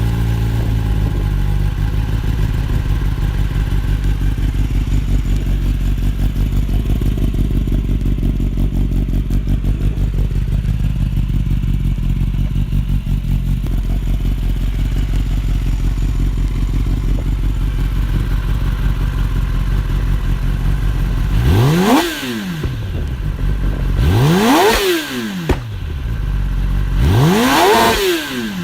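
Kawasaki ZX-10R inline-four sportbike engine idling steadily through its exhaust, then blipped three times near the end, each rev rising sharply and dropping back to idle.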